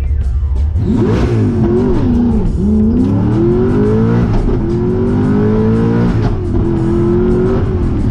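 Car engine launching from a low rumble and accelerating hard, its pitch climbing and then dropping suddenly three times as it shifts up through the gears, before easing off near the end.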